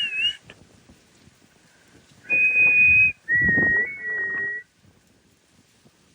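A person whistling by mouth to call dogs back: a short warbling whistle, then a long high steady note followed by a slightly lower, longer one.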